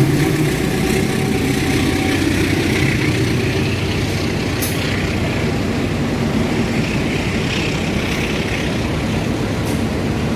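A train running past on the tracks: a steady rumble of wheels on rail, with a low hum that fades out about two seconds in and a couple of sharp clicks, one about halfway and one near the end.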